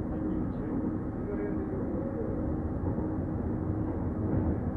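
Docklands Light Railway train running, heard from inside the carriage: steady low running noise with a faint hum.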